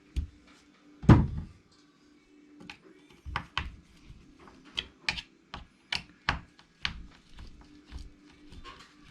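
A heavy knock about a second in, then a run of sharp, irregular clicks and taps: hand tools and parts being handled while the bolts of an RC truck's cover are tightened.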